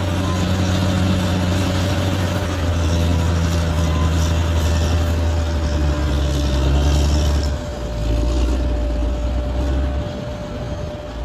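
A large bulldozer's diesel engine is running under working load, with a thin steady whine above it. The engine note steps down and back up a few times as the load changes.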